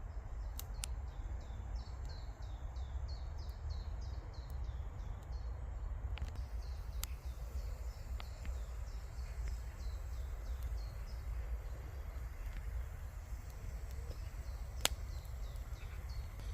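A small songbird repeating a quick chirping note about three times a second, clearest in the first half and fainter later, over a steady low wind rumble on the microphone. A few sharp clicks, the loudest near the end.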